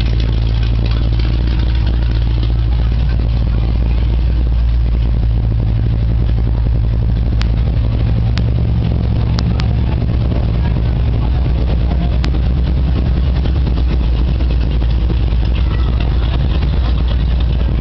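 A car engine idling with a steady low rumble, with a few faint ticks.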